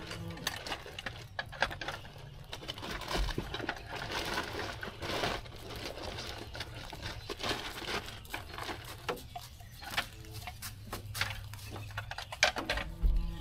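Rustling and crinkling with scattered clicks and knocks, as of gear being handled close by, with a louder knock near the end.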